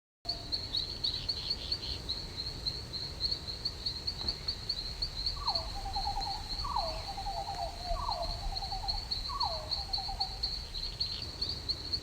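Crickets trilling steadily and high-pitched. Four calls from another animal break in midway, each a falling note that trails off into a quick rattle, a little over a second apart.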